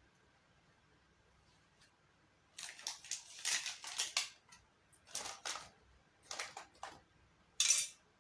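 Several short clusters of crackling, crunching noises after a couple of quiet seconds, with one sharp, louder burst near the end.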